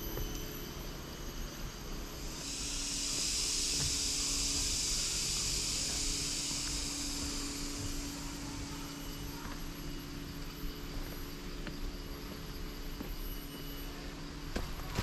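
A high, even insect buzz, typical of a cicada, starts abruptly about two seconds in and fades away after some six seconds. Faint clicks come near the end.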